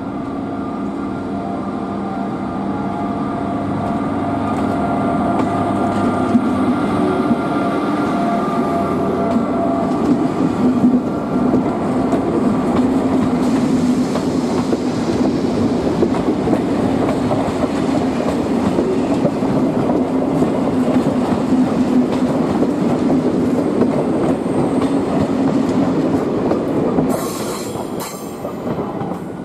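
An SNCF BB 7200-class electric locomotive in green Fret livery, hauling a train of Corail coaches, passing close by. It starts with a steady whine from the locomotive as it approaches, then a growing, continuous rumble of coach wheels on the rails as the train goes by, which falls away near the end.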